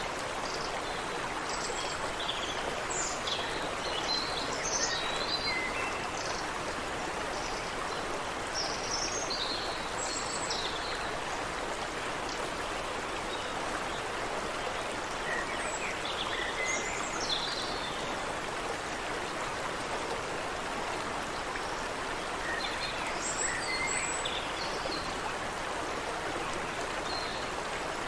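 Water running steadily in a stream, with small birds chirping and warbling over it in scattered bursts, busiest in the first third and again around the middle and near the end.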